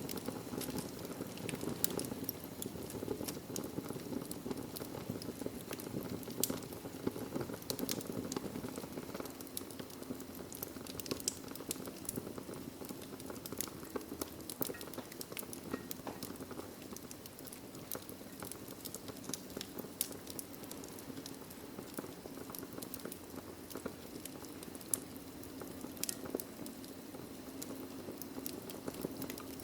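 Wood fire of burning logs crackling: a steady low rush of flame with frequent sharp irregular pops and snaps.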